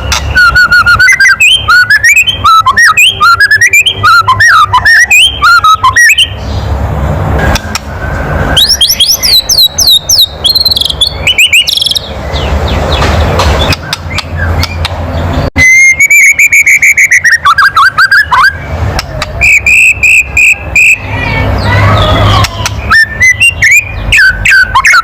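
White-rumped shama (murai batu) giving fast rattling 'kretekan' click calls mixed with quick whistled song phrases and a few held whistled notes. Kretekan is the shama's agitated challenge call, used to rile a male into singing. Very loud.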